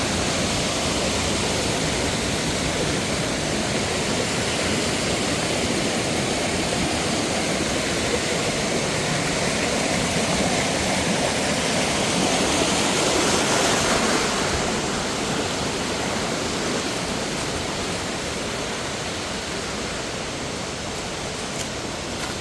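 Mountain waterfall and stream water rushing over rocks in a steady roar, easing a little in the last few seconds.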